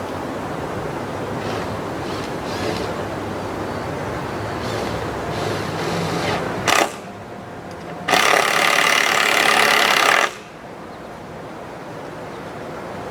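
Power drill driving a screw: a short burst just before the middle, then a run of about two seconds that stops abruptly. Steady wind noise throughout.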